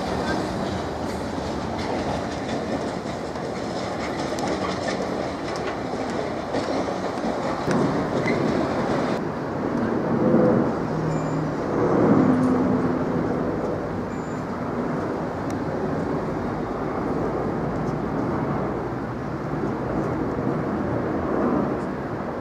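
A South West Trains electric multiple unit running through the station, its wheels clattering over the rail joints. About nine seconds in, the sound changes to a steady rumble of jet engines, which swells for a few seconds, from a British Airways Airbus A380 flying low overhead on approach.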